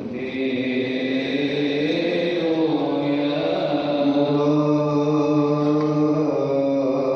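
A priest chanting the Gospel reading of the Coptic Orthodox liturgy, holding long drawn-out notes whose pitch glides slowly up and down.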